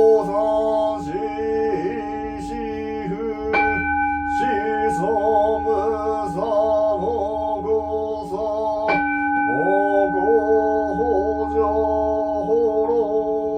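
A large Buddhist bowl bell struck three times, near the start, about three and a half seconds in and about nine seconds in, each stroke ringing on long and steady, under a man's slow sung chant.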